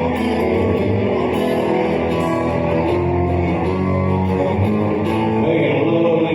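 Live country band playing an instrumental passage, with guitar to the fore and no vocals.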